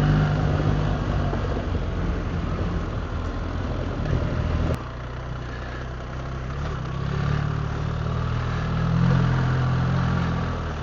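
BMW R 1300 GS Adventure's boxer-twin engine running as the motorcycle is ridden, its engine note swelling and easing with the throttle. The sound changes abruptly a little under halfway through, then continues at a lower level.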